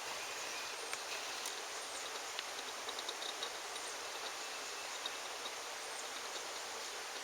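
Steady outdoor background noise, an even hiss-like wash with faint scattered small ticks and short high chirps.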